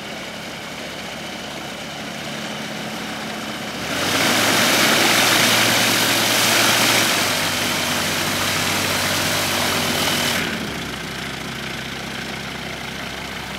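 A light aircraft's piston engine idling steadily. About four seconds in, a loud rushing noise suddenly covers it for some six seconds, then cuts off just as suddenly.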